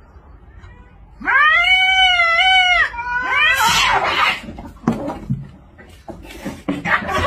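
Two cats fighting. One cat gives a long drawn-out yowl, then a harsh hissing screech comes about three and a half seconds in as they clash. Scattered short scuffling noises follow while they grapple.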